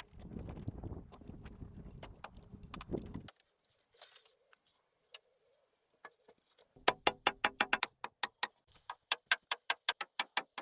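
Hand tools tapping on timber while joinery is cut: a low steady background noise for about three seconds, then a quick run of sharp knocks about two-thirds of the way in, slowing to single taps every third of a second or so.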